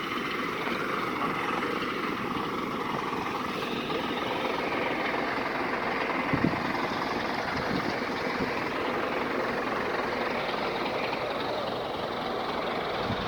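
Scania 113H 320 truck's 11-litre inline-six diesel running steadily, with a short knock about six and a half seconds in.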